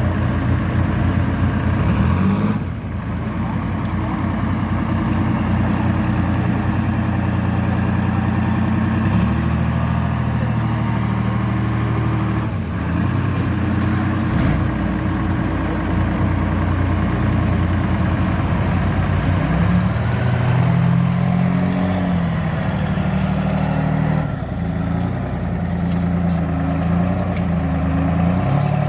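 Detroit Diesel engines in semi trucks running, heard in a series of short clips, each a steady low engine note, with the engine speed rising and falling for a few seconds in the later part.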